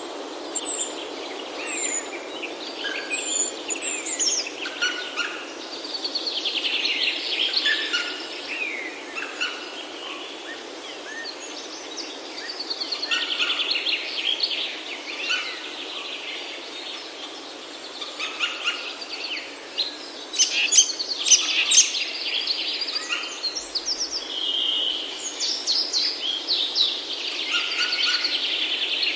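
Birds singing: a fast trilled song phrase comes back every six or seven seconds, with high, thin, down-slurred calls in the first few seconds, over steady background noise.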